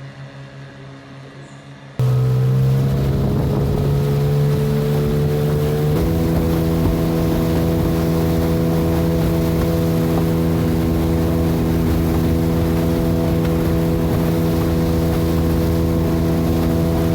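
Small boat's motor running under way, a steady engine drone. It starts faint, jumps abruptly louder about two seconds in, climbs slightly in pitch, steps up again a few seconds later, then holds steady.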